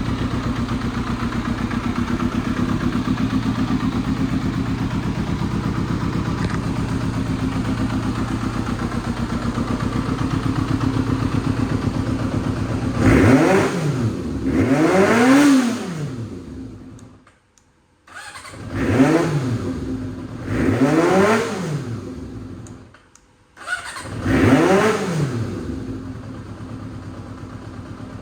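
Yamaha XJR400R's inline-four engine through an aftermarket RPM exhaust, idling steadily, then blipped about thirteen seconds in through five quick revs, each rising and falling. The sound drops away briefly twice between the revs, then settles back to idle near the end.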